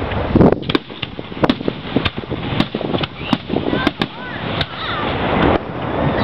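Aerial fireworks display: shells bursting in quick succession, about a dozen sharp bangs over continuous crackle and rumble, with a few short whistles between three and four seconds in.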